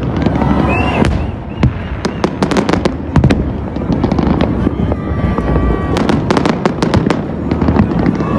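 Fireworks going off in rapid succession: a dense run of sharp bangs and crackles over a constant low rumble, with the heaviest clusters of bursts in the middle and again near the end.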